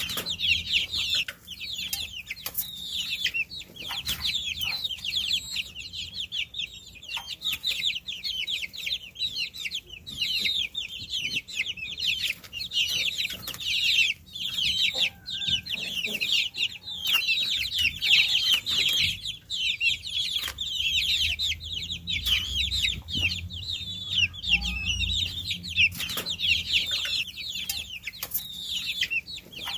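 Many baby chicks peeping together without pause, a dense chorus of short, high chirps that each fall in pitch and overlap one another.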